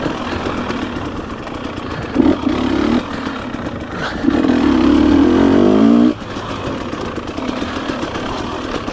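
Dirt bike engine running on the trail, with a short blip of throttle about two seconds in and a longer, louder burst of throttle about four seconds in whose pitch climbs before it drops off suddenly, then back to steady running.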